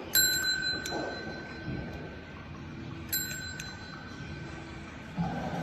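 A small bell struck twice, about three seconds apart, each strike ringing on and fading slowly.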